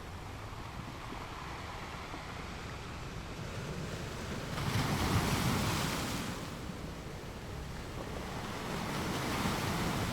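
Sea waves breaking against rocks: a steady wash of surf with one louder wave crashing about halfway through and another swelling near the end.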